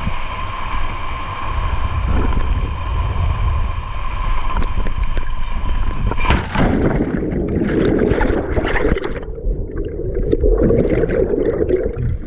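Rushing waterfall water with wind on the microphone. About six seconds in there is a sudden change to a muffled, low gurgling churn of water.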